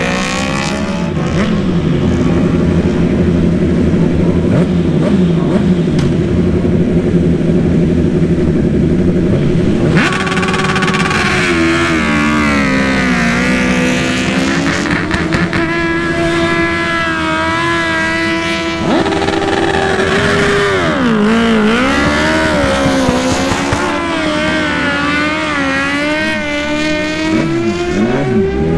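Superbike race motorcycle engines revving during practice starts. Several bikes run together at first, then engines are held at steady high revs, dipping briefly and rising again about two-thirds of the way through.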